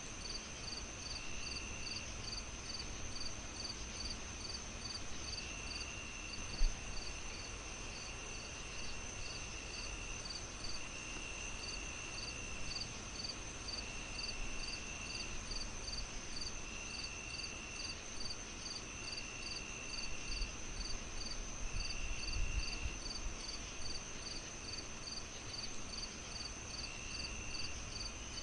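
Crickets chirping steadily in an even, rapid pulse, with a second insect trilling in short bursts of about a second that come and go. Underneath is a low fire crackle with one sharp pop about seven seconds in.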